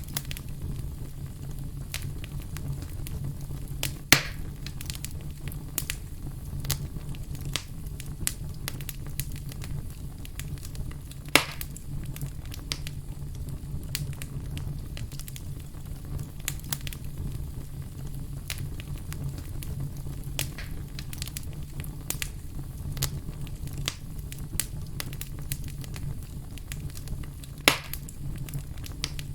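Wood fire burning in a fireplace, with a steady low rumble and frequent small crackles, and three louder pops: one about four seconds in, one near the middle and one near the end.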